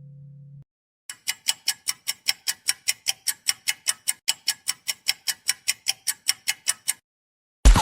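Clock ticking sound effect: a fast, even series of sharp ticks, about five a second, lasting roughly six seconds. Loud electronic dance music cuts in at the very end.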